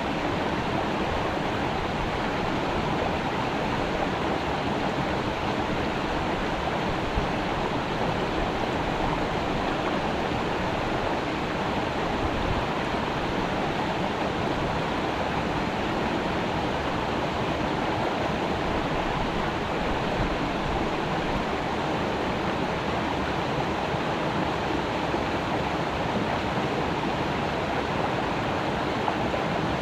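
Creek water rushing and splashing over rocks in a steady, even flow.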